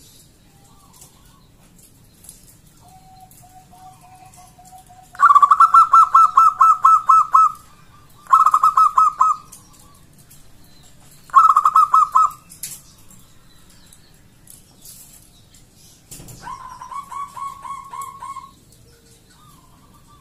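Zebra dove (perkutut) calling: a soft, lower drawn-out coo, then three loud bursts of rapid stuttering coos, and a quieter fourth burst near the end. It is the song used as a lure to set other zebra doves calling.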